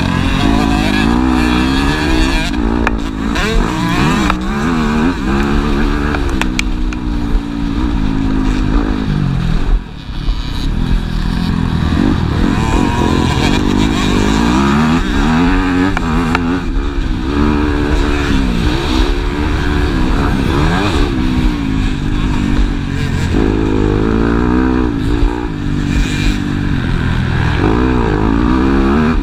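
Several motocross bikes racing: their engines rev up and fall back again and again as the riders work the throttle, the sounds overlapping. The sound dips briefly about ten seconds in.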